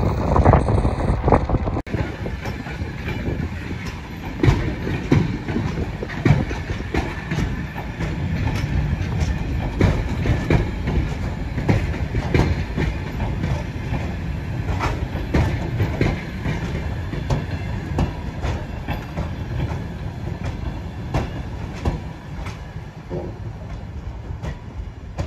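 ER2 electric multiple-unit train rolling past with a steady rumble, its wheels clacking irregularly over rail joints and switches. It opens with wind buffeting the microphone for a couple of seconds before cutting off abruptly.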